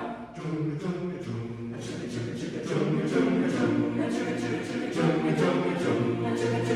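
Chamber choir singing a cappella without words: low sustained chords under a steady rhythm of short hissing strokes, about three a second.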